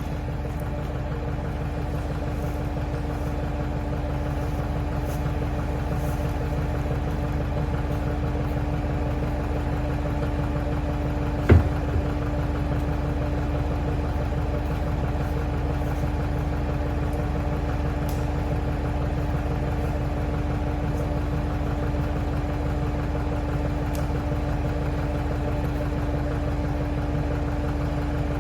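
Loader's engine running steadily at a constant pitch, with one sharp knock about eleven seconds in.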